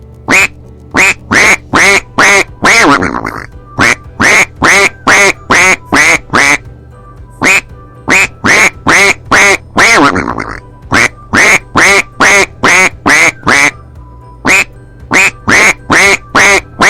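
Duck quacking: runs of short, loud quacks about two a second, each run ending in a longer quack that falls in pitch. Quiet background music runs underneath.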